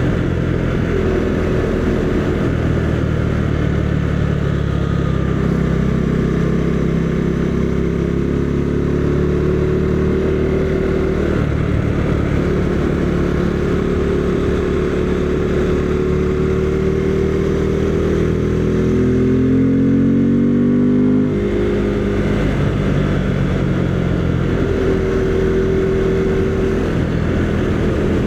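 Husqvarna Svartpilen 401's single-cylinder engine running steadily under way, over a steady rush of wind noise. About 19 s in, the revs climb, then drop suddenly a couple of seconds later and settle again.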